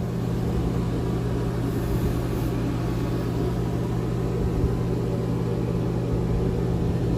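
Steady machinery hum in a boat's engine room: a constant low drone with no change in pitch.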